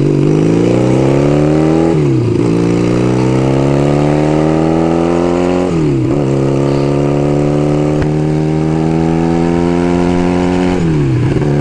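1975 Kawasaki KZ400S parallel-twin motorcycle engine accelerating up through the gears: its pitch climbs, then drops sharply at each upshift, about 2, 6 and 11 seconds in. Wind noise runs underneath.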